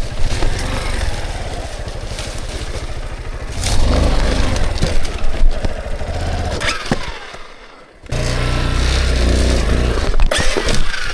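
Dirt bike engine revving in surges as the bike is ridden up and over logs, with a few knocks and scrapes. The engine note dips almost to nothing just before eight seconds in, then comes back revving hard.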